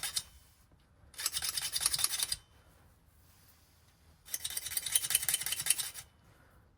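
Hand file rasping across a nickel-plated key blank in two long strokes, with the tail of an earlier stroke at the start, taking the plating off to prepare a fresh side of the blank for impressioning.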